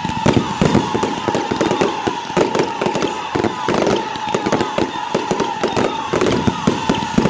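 Professional fireworks display firing a rapid, dense barrage of bangs and crackling, many reports a second with no let-up. A thin steady tone runs underneath.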